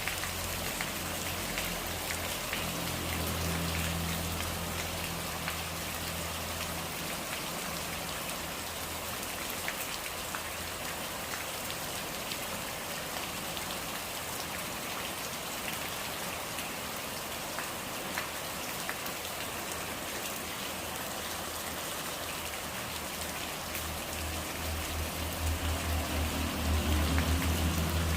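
Steady rain falling, with scattered individual drops ticking through the even hiss. A low hum runs through the first few seconds and returns near the end, growing louder in the last few seconds.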